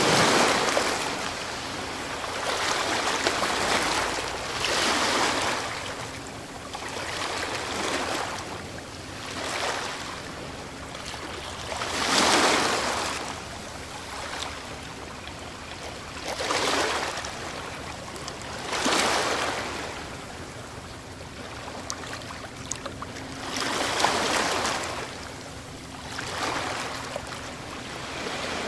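Ocean waves breaking on a shore, in repeated surges every few seconds that swell and fall back into a steady wash of surf.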